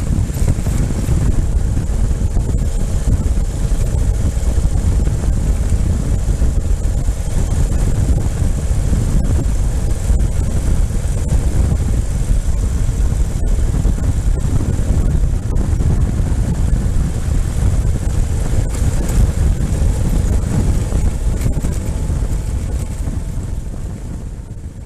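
Motorcycle riding along with its engine running and strong wind noise on the microphone, steady throughout and easing off slightly near the end.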